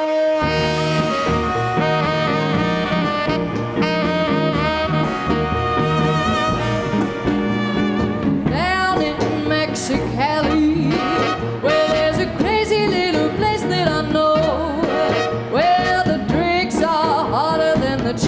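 A live swing and R&B band plays: tenor saxophone and horns over bass, guitar and drums. The opening is held horn chords; from about halfway the lead line begins to bend and slide in pitch.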